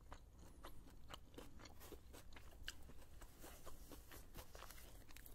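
A person chewing food with the mouth closed: faint, irregular wet clicks and smacks of the mouth, several a second.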